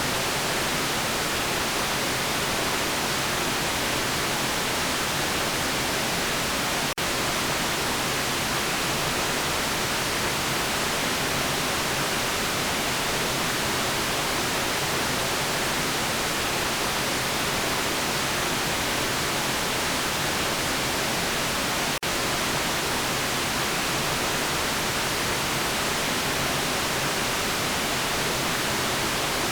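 Steady white noise: an even hiss across the whole range, with no tones or events, briefly dipping twice, about seven and twenty-two seconds in.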